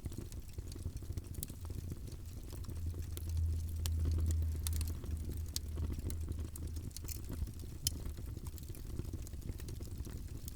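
Wood fire in a fireplace crackling, with scattered sharp pops over a low, steady rumble of the flames that swells for a couple of seconds a few seconds in; one louder pop near the end.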